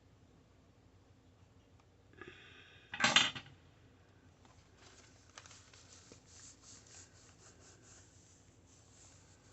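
Paper and card being handled and rubbed on a tabletop while a journal pocket is made: a short, loud scraping rasp about three seconds in, then a run of soft rubs and rustles.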